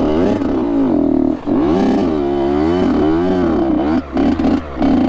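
Honda CR85's two-stroke engine revving as the dirt bike is ridden, its pitch rising and falling again and again with the throttle. The sound drops briefly about a second and a half in and twice near the end, where the throttle is shut off.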